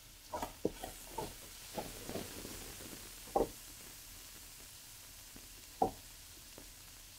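Ground meat sizzling in a hot wok, with a quick run of sharp knocks and clicks in the first couple of seconds and two more single knocks later.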